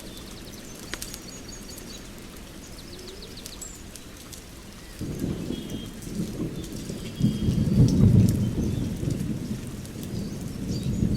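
Steady rain with birds chirping, then a long roll of thunder rumbling in about five seconds in, growing loudest near the end.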